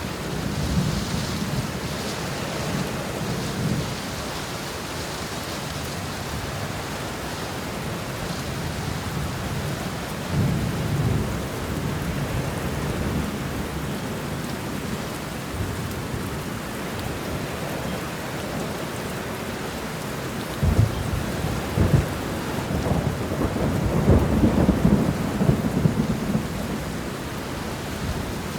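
Steady heavy rain with thunder rumbling low, faintly near the start and again about ten seconds in. A louder peal breaks with sharp cracks about two-thirds of the way through and rolls on for several seconds.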